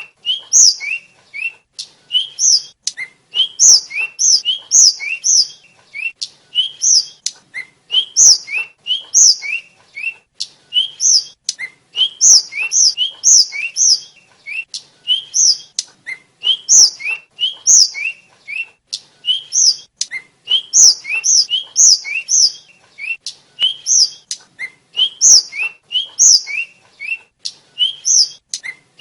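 Hill blue flycatcher (tledekan) singing continuously: quick phrases of short, high whistled notes that sweep up and down, repeated over and over with barely a pause.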